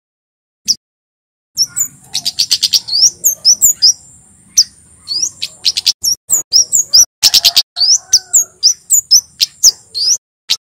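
Male kemade jawa, a flowerpecker, singing a rapid run of short, sharp, high-pitched chirps. The song starts after a short pause and has a thin, steady high whistle running beneath the chirps.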